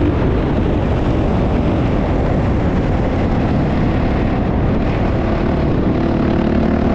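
Motocross motorcycle engine running loud and steady, with no pause or sudden change.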